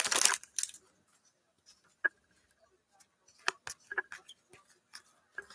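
Trading cards from a freshly opened Panini Prizm pack being handled and flipped through: a few scattered light clicks and snaps of card on card, with near quiet between.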